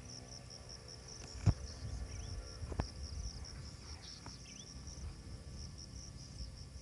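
Insects chirping in a steady, pulsing high trill, with a few short rising chirps over it. Two sharp knocks come about a second and a half in and just under three seconds in, the first the loudest.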